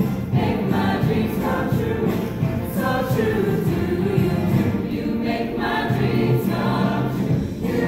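A choir singing, with sustained low accompanying notes beneath the voices.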